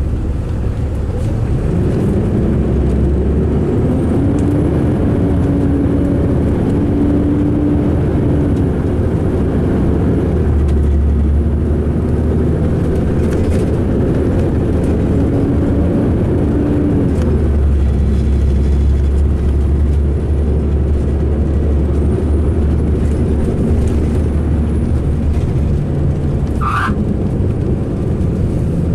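2005 MCI D4500 coach's diesel engine running under way, a heavy low rumble whose pitch rises and falls several times as it pulls and shifts; the coach sounds rough-running. A brief squeak near the end.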